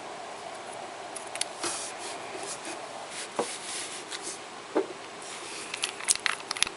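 Small handling sounds of nail-art tools and polish: soft scraping and rubbing, then a few light clicks and taps that come thickest near the end.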